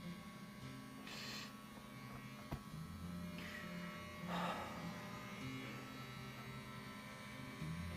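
Electric hair clippers buzzing steadily as they shave a head, the pitch of the buzz shifting as they cut through hair. There are two brief hissing noises, about a second in and again just past four seconds.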